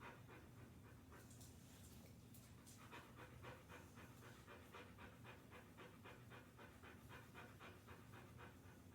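A large dog panting faintly in a quick, even rhythm, the pants getting clearer about three seconds in, over a faint steady low hum.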